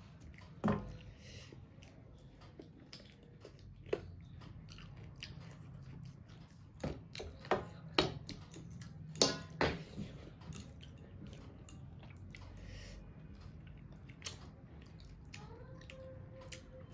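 Chewing and biting on pieces of chicken on the bone, eaten by hand, with a few sharp clicks and crunches: one about a second in, one about four seconds in, and a cluster a few seconds later.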